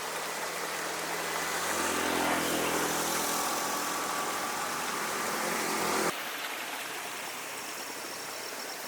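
A vehicle engine running with a faint hum over a steady wash of road and wind noise. About six seconds in, the sound cuts abruptly to a quieter, even hiss.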